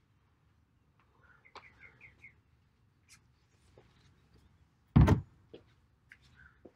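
A bird chirping a quick run of short notes, with a few more near the end. A single loud thump just after five seconds in is the loudest sound.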